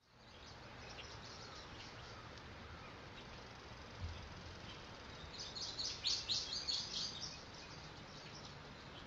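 Small birds chirping over a steady, quiet background hiss, with a quick run of bright chirps from about five and a half to seven seconds in. There is a soft low thud about four seconds in.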